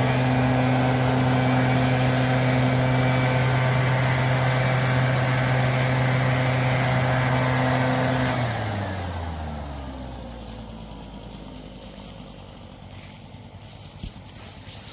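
An engine running steadily at a fixed speed, then shut off about eight seconds in, its pitch sliding down as it winds to a stop, leaving a faint low rumble.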